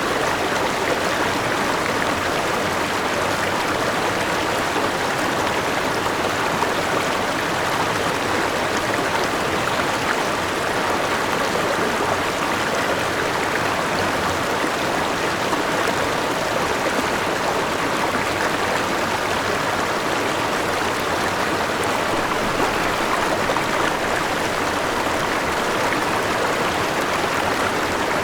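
River water rushing and splashing over a small waterfall, a steady full rush with no pauses.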